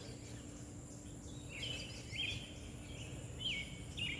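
A bird giving a short whistled call several times, some in quick pairs, over steady outdoor background noise with a faint low hum.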